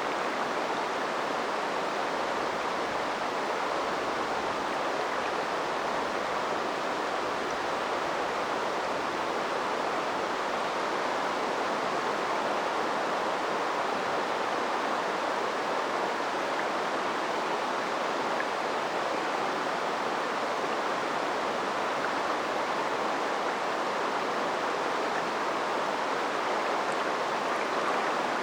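River water flowing steadily over the streambed, a constant even rushing.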